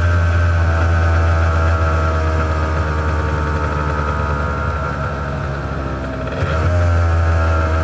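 Honda NS400R's two-stroke V3 engine running through its stock mufflers at a fairly steady pitch, easing off a little, then picking up again with a short change in pitch about six and a half seconds in.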